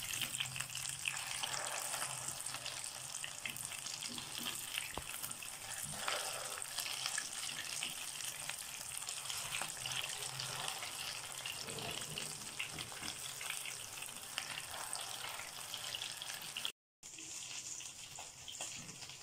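Egg-coated chicken and vegetable cutlets shallow-frying in oil in a non-stick pan: a steady sizzle dotted with small crackles as they are turned over.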